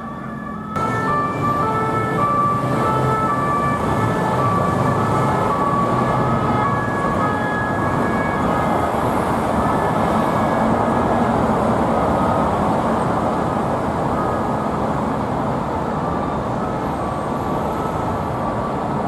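A French two-tone police siren alternating between a higher and a lower note about every half second, over loud traffic and engine noise. The sound jumps louder less than a second in.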